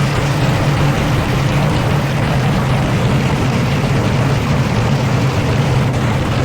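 Old Hotpoint washing machine spinning at high speed with its drum deliberately thrown out of balance: a loud, steady mechanical rumble with a low hum.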